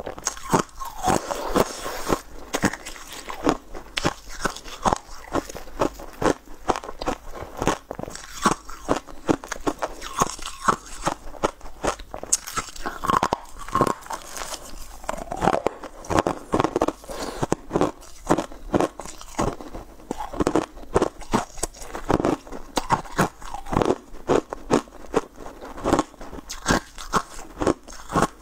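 Close-miked eating of frosty blue swirl-shaped treats: a steady run of sharp, brittle crunches and chewing as the hard pieces are bitten and broken up in the mouth.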